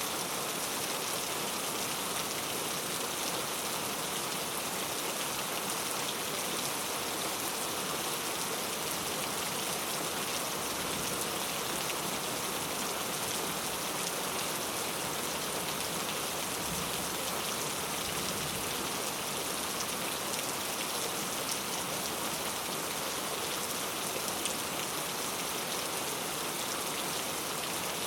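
Heavy rain falling steadily, an even, unbroken hiss of drops on a surface.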